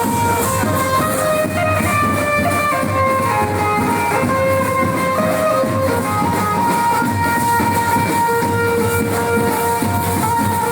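Loud music played through a vehicle-mounted sound system, a melody of held notes over a dense, rumbling low end with no breaks.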